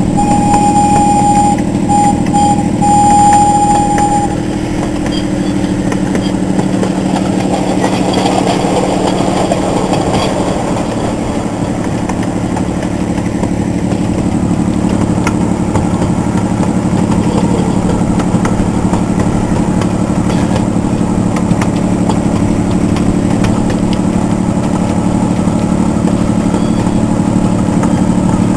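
Miniature zoo train's locomotive engine running steadily under way, a constant drone. For about the first four seconds a steady high tone sounds over it, breaking off briefly a few times.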